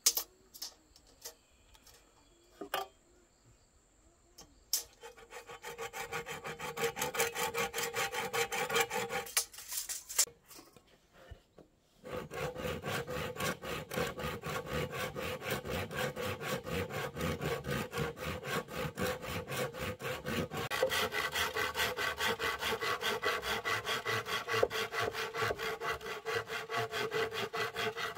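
Saw cutting wood with fast, even rasping strokes: one run of about five seconds, a short pause, then a longer steady run to the end.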